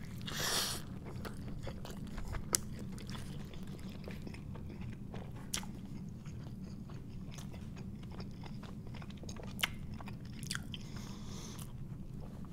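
Close-miked chewing of a mouthful of bacon cheeseburger, with wet mouth sounds and a few sharp smacks, the sharpest a couple of seconds in and another near ten seconds. A steady low hum sits underneath.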